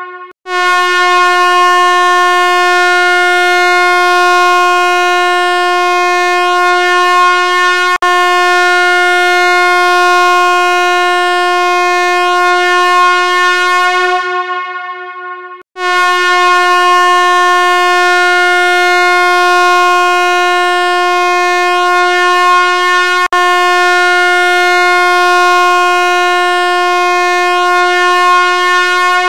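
A loud, steady, buzzy tone held at one pitch, sounding twice for about fourteen seconds each time, its upper overtones fading away as each one ends.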